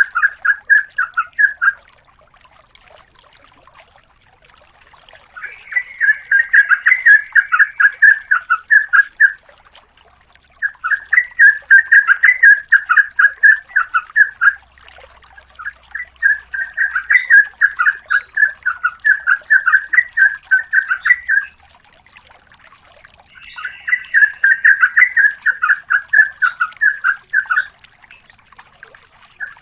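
Yellow-vented bulbul (trucukan) singing in long runs of rapid repeated notes. There are about five bursts of a few seconds each, with short pauses between them.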